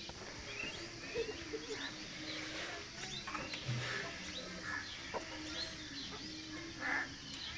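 Scattered, fairly faint bird calls: short chirps, some of them clucking, spread through the whole stretch over a low background.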